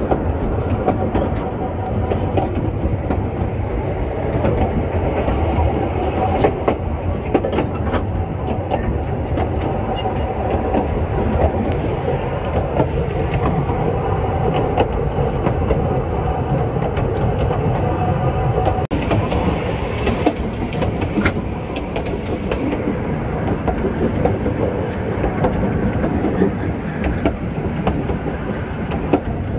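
Narrow-gauge railway carriage running along the track, heard from its open end balcony: a steady rumble of wheels on rail with rattling and scattered sharp clicks.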